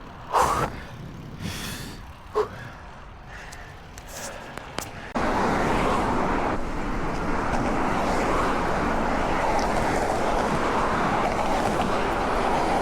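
Wind rushing over a bike rider's camera microphone, with road rumble underneath, while cycling. A few short bursts and clicks come in the quieter first part, then the wind noise jumps suddenly louder about five seconds in and stays steady.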